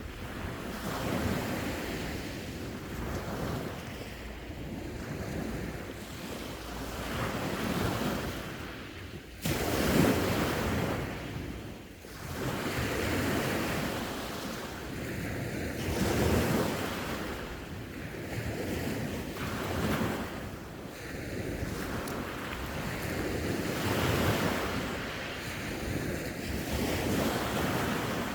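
Sea waves breaking and washing on the shore, swelling and ebbing every few seconds, with a sudden louder surge about ten seconds in. Wind buffets the microphone.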